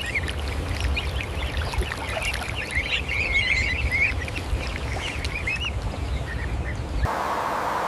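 A brood of ducklings peeping, many quick high wavering calls overlapping, over a low rumble. About seven seconds in the peeping cuts off and a sound of running water takes over.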